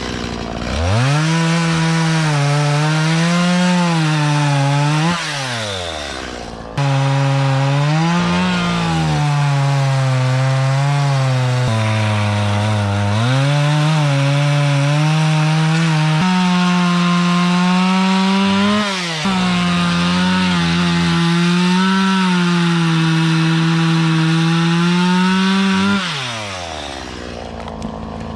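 Two-stroke Stihl chainsaw running at full throttle and cutting willow wood, its pitch dipping and recovering as the chain loads in the cut. It revs up about a second in, drops briefly and comes back loud, and falls back to idle near the end.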